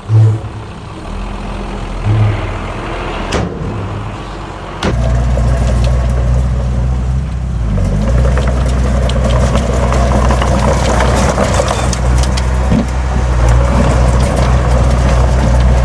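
Heavy diesel engine of earthmoving machinery running. About five seconds in it suddenly gets much louder and settles into a steady low drone, with a clatter of short clicks building over it in the second half.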